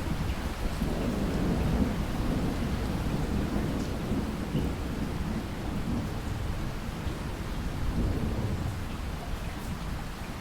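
Steady rain with a low rumble of thunder rolling underneath.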